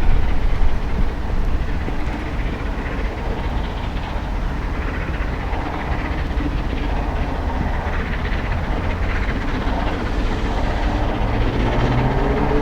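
LMS Royal Scot class steam locomotive 46100 and its train running past at speed, wheels rumbling and clattering on the rails.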